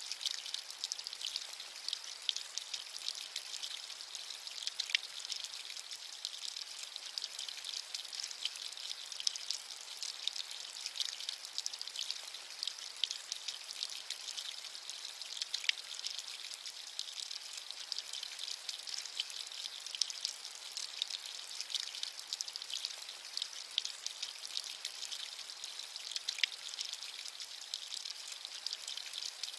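Steady rain with a high, even hiss and many fine raindrop ticks, with a few louder individual drips.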